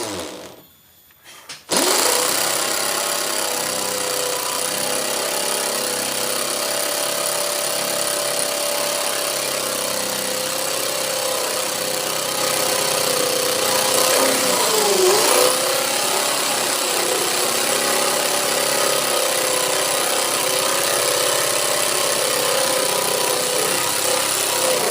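A brief pause, then an electric power tool motor switches on a little under two seconds in and runs steadily. Around the middle its pitch dips and recovers, as it slows under the load of cutting a curve in wood.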